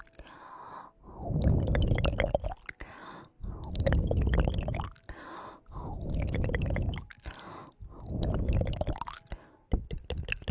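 Close-miked ASMR trigger sounds in repeated bursts about every two seconds, each a second or so of wet clicks and crackles over a low rumble.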